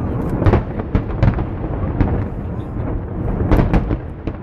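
Fireworks display heard from afar: overlapping booms run together into a steady thunder-like rumble, with sharp cracks every second or so.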